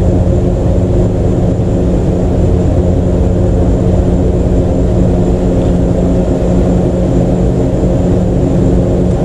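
A loud, steady mechanical drone with a constant low hum, like a running fan or blower, that does not change.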